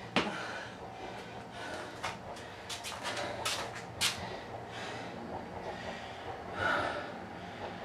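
A person breathing hard during sledgehammer training, with a few sharp knocks. The loudest breath comes near the end.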